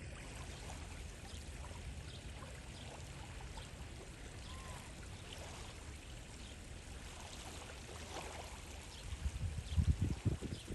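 Steady rush of open water with faint, scattered short high chirps. From about nine seconds in, loud irregular wind gusts buffet the microphone.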